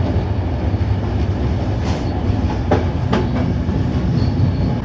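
Train carriage running on the rails, heard from inside: a steady low rumble with a few irregular clicks of the wheels over rail joints.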